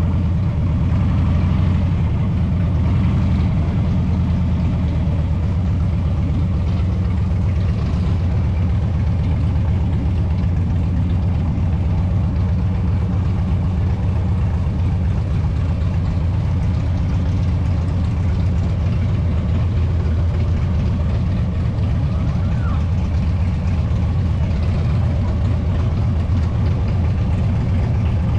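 Harley-Davidson V-twin motorcycle engine running at a steady pace under way, its low exhaust note unchanging.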